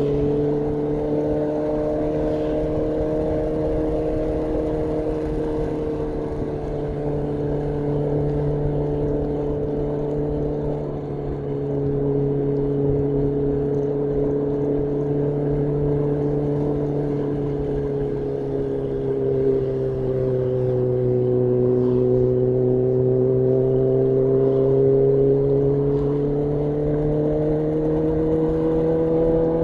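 2018 Honda CB1000R's inline-four engine through a full-system Black Widow exhaust, running at steady cruising revs. The pitch dips slightly about two-thirds of the way through, then climbs again near the end.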